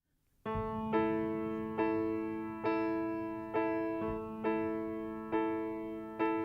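Piano intro: a chord struck about once a second in a steady repeating pattern over a held low note, starting about half a second in.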